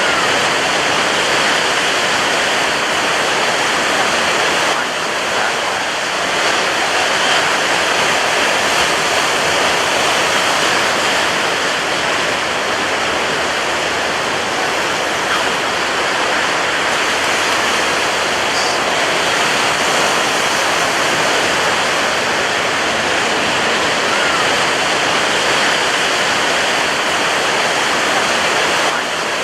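Ocean surf breaking on a beach: a loud, dense wash of water noise with no single crash standing out.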